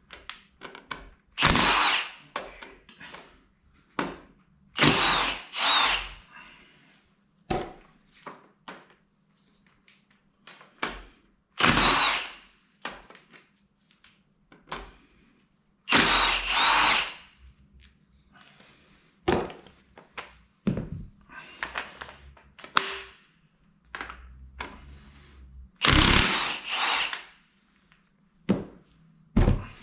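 A power tool runs in about half a dozen short bursts of a second or less, some in quick pairs, as fasteners are worked on during an engine strip-down. Smaller clicks and knocks of tools and parts fall between the bursts.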